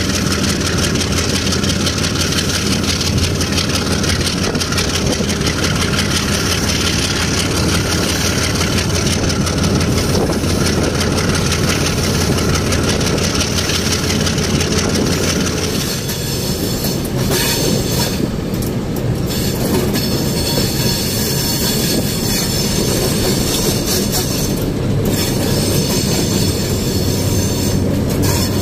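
Diesel-hauled passenger train running slowly on the rails, with a steady low drone from the locomotive's engine. About sixteen seconds in, the engine drone fades back and the clatter of the coaches' wheels on the track comes forward, with scattered clicks.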